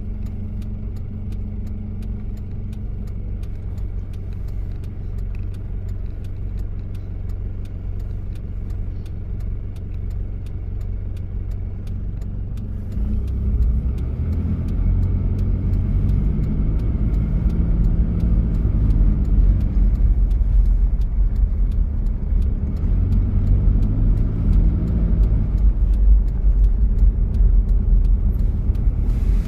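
1993 Toyota Prado's diesel engine running steadily, then growing louder about halfway through as the vehicle pulls away, its pitch rising and falling twice under acceleration.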